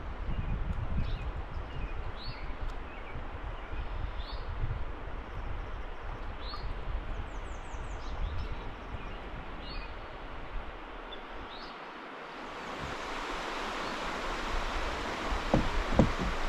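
A small bird chirping with short calls about once a second over a low rumble; about two-thirds of the way through, a steady rush of flowing river water swells in and takes over, with a few knocks near the end.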